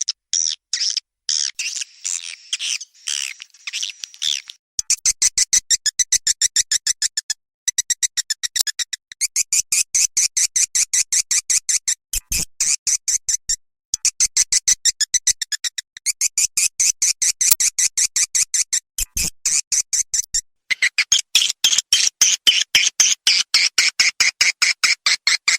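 Swiftlet call sound used as a lure for swiftlets: rapid, evenly repeated high chirping clicks in runs of a few seconds, broken by short pauses.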